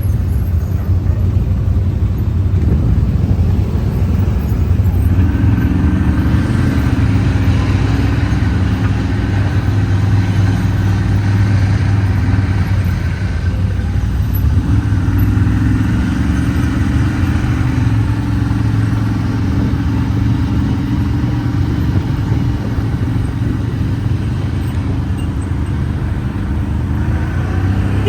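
Off-road vehicle engine running steadily while under way, a continuous low rumble whose note rises a few seconds in and shifts slightly several times as the throttle changes.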